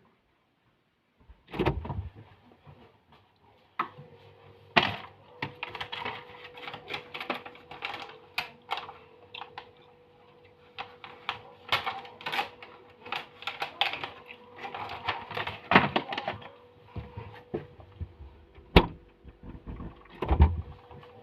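Irregular clicks, knocks and rustling of things being moved about inside a refrigerator, with a steady hum starting about four seconds in.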